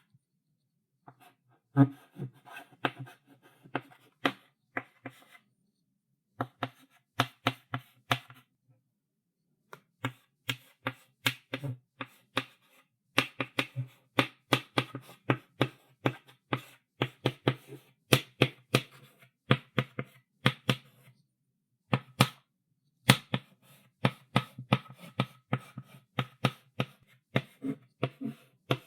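Chalk writing on a blackboard: fast runs of taps and short scratchy strokes, coming in bursts with brief pauses between them, the first pause right at the start.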